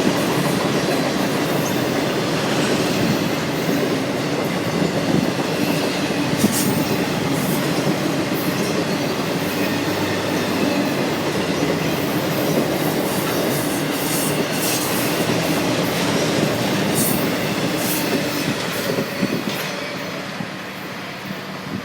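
Freight cars of a BNSF intermodal train rolling past, with a steady wheel-on-rail rumble and brief clicks and squeaks from the wheels. It grows quieter over the last few seconds as the end of the train passes.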